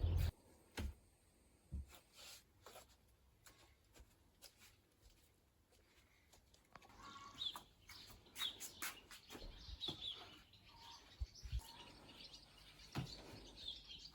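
Birds chirping faintly, joined by a few scattered soft knocks. A loud low rumble cuts off abruptly at the very start.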